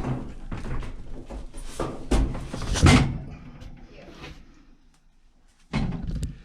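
Flexible aluminum dryer exhaust duct and vent fitting being handled and pushed together: irregular crinkles, knocks and clanks, the loudest about two to three seconds in, then a short lull and more knocks near the end.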